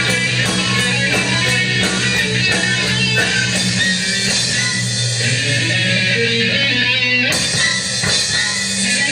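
Rock band playing: electric guitar with bass and drum kit, loud and steady.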